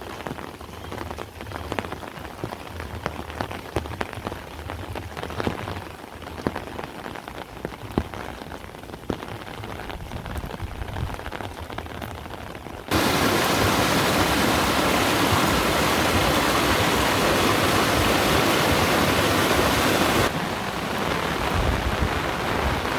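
Rain falling with many separate drops audible, then about halfway through it switches abruptly to a loud, dense downpour, easing somewhat near the end.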